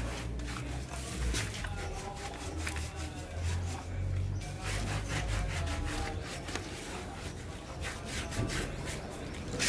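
Repeated scrubbing strokes of a pet bath brush rubbed through a dog's coat.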